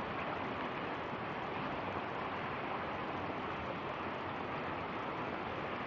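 Steady rushing of creek water flowing.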